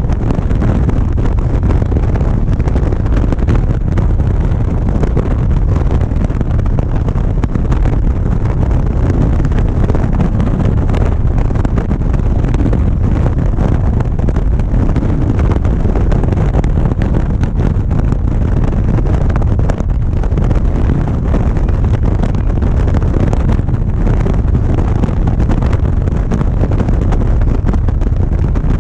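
Wind rushing over a GoPro's microphone on a motorcycle at a steady cruising speed, with the engine running beneath it. The loud, even rumble does not rise or fall.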